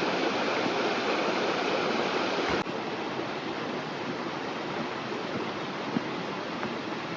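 Steady rushing of a river or stream, an even watery hiss that drops suddenly to a slightly quieter level about two and a half seconds in.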